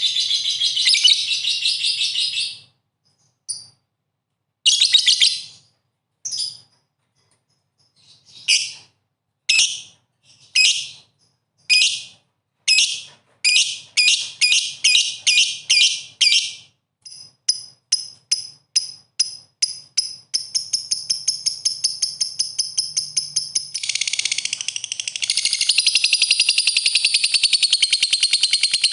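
Lovebird chattering in high-pitched chirps: at first a burst, then separate short bursts with pauses, which come closer and closer together until, about twenty seconds in, they run into one long unbroken rapid chatter that carries on to the end.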